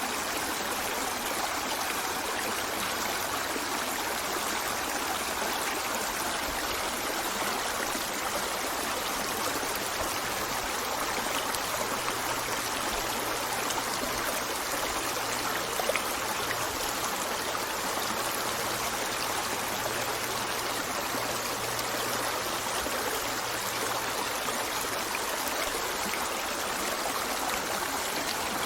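River water flowing steadily, an even, unbroken wash of sound.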